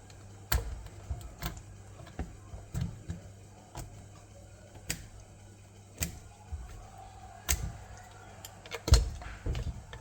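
Plastic Lego bricks clicking and knocking as they are handled and snapped together or pulled apart: scattered sharp clicks, with a louder cluster near the end.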